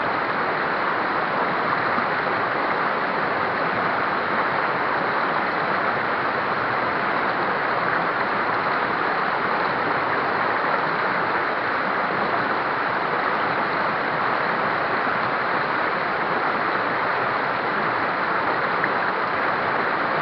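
River rapids rushing steadily over rocks, a constant wash of water with no change in level.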